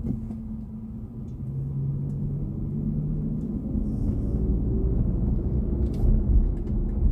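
Road and tyre rumble of a BMW i4 M50 electric car driving at low speed, getting louder about a second and a half in.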